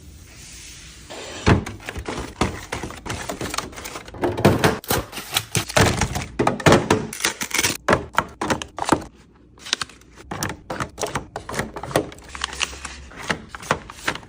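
Objects being handled and set down while a refrigerator is arranged: a quick run of knocks, clicks and thunks that starts about a second in, is densest in the middle, and pauses briefly before picking up again.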